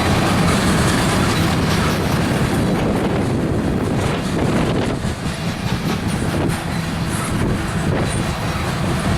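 Freight train cars rolling past, with steady rumbling and wheels clicking over the rail joints. The sound eases slightly about halfway through.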